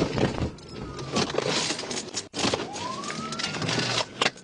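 Police siren wailing, its pitch sweeping up and back down about every two seconds, over loud rushing noise.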